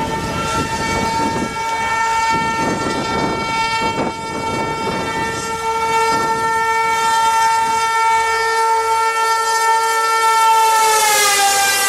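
Horn of a WAP-7 electric locomotive held in one long blast as the train approaches at speed, its pitch dropping as the locomotive passes near the end, over wheel and rail noise.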